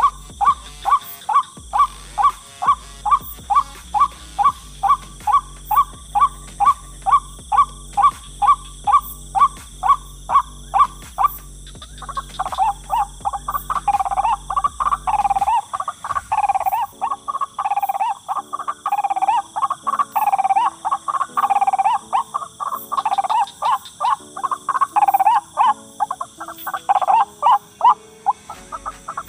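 White-breasted waterhen (ruak-ruak) calls repeated evenly about two and a half times a second over an electronic backing with a steady bass line, as on a bird-lure call track. About twelve seconds in, the bass stops and the calls turn faster and more warbling, overlapping one another.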